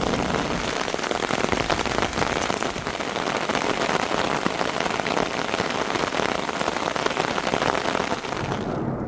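Steady, dense patter of rain falling. The hiss cuts off abruptly near the end, leaving only a low rumble.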